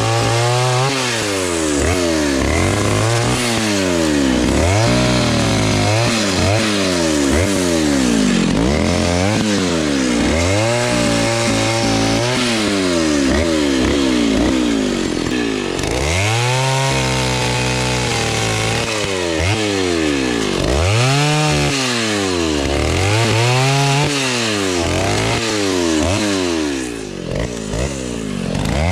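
Vintage Stihl S-10's 56cc single-cylinder two-stroke chainsaw engine running loud, its revs rising and falling over and over as the throttle is opened and eased while cutting wood. It is held at high revs for a couple of seconds around the middle.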